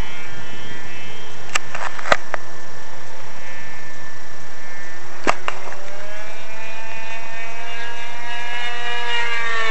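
Electric RC airplane in flight: a brushless outrunner motor on a 4S lipo spinning an APC 8x8 propeller gives a steady buzzing whine. After about six seconds the pitch wavers and then falls near the end as the plane passes. A few sharp clicks are heard early on and around the middle.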